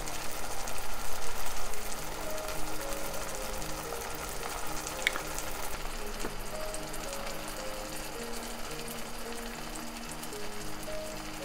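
Food sizzling and crackling as it fries in a frying pan, a little louder for a moment about a second in, under a gentle background tune.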